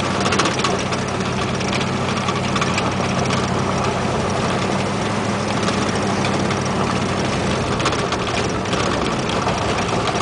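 The 472 big-block V8 of a 1973 Cadillac Calais running steadily while driving, heard from inside the cabin with road noise. Light interior rattles tick faintly through it.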